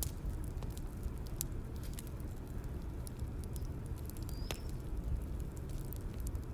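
Bonfire crackling: a low, steady rumble of burning with irregular sharp pops and snaps.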